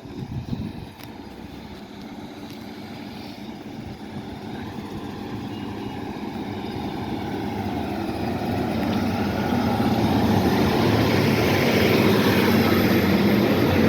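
Class 150 Sprinter diesel multiple unit pulling away from the platform, its underfloor diesel engines and transmission growing steadily louder as it accelerates.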